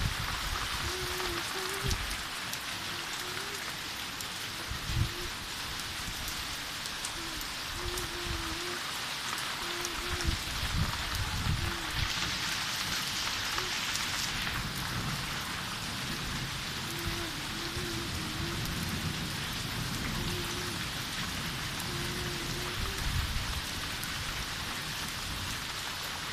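Steady heavy rain hissing on surfaces, briefly heavier about halfway through. Occasional deep thumps and a faint short low tone that recurs now and then sound through it.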